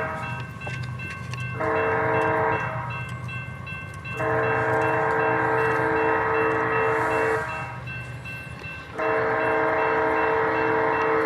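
Nathan K5HL five-chime horn on a BNSF diesel locomotive, blown in a crossing pattern: a blast ending right at the start, a short blast, then two long blasts, the last running on past the end. A low locomotive rumble runs underneath, with an electronic bell dinging steadily.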